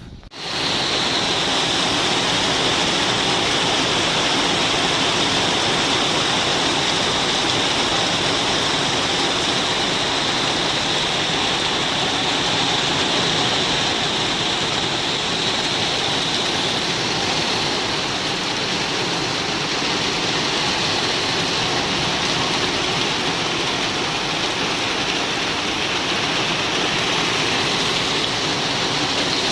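Heavy rain pouring down in a dense, even hiss that starts suddenly right at the start and keeps up without a break.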